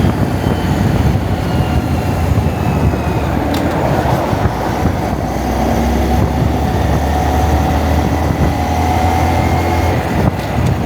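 Honda Monkey's single-cylinder four-stroke engine running steadily at cruising speed, mixed with heavy wind noise buffeting the camera's microphone.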